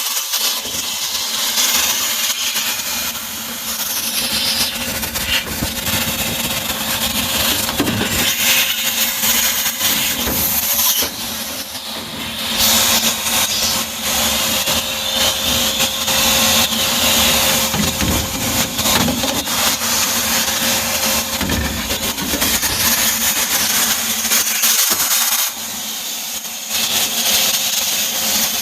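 Vacuum cleaner running steadily with a motor whine, its rushing suction changing as the nozzle is moved about while sucking dust out of a furnace. The level dips briefly a couple of times.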